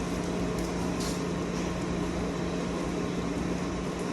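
A motor running steadily: an even hum with one constant low tone over a wash of noise.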